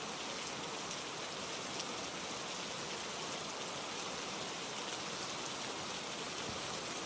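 Steady rainfall, an even hiss of many drops falling on a surface.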